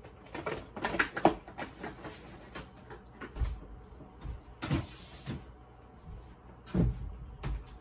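Irregular plastic clicks, knocks and rattles as AAA batteries are pulled out of one RC transmitter's battery compartment and pressed into another's. There are a few heavier thumps, the loudest about seven seconds in.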